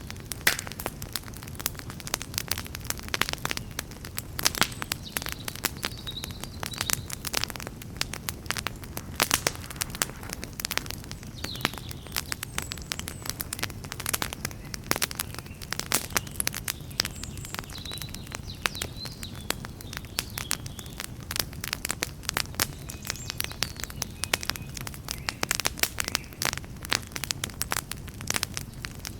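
Campfire crackling and popping: dense, irregular sharp pops of burning wood over a steady low rumble from the fire.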